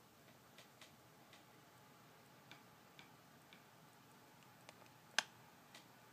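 Faint, irregular small clicks and taps, with one sharper click about five seconds in.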